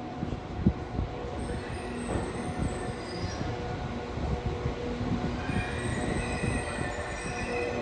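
Passenger train running slowly into the station, its wheels squealing on the rails from about a second and a half in, with scattered clicks and knocks from the track under a steady low hum.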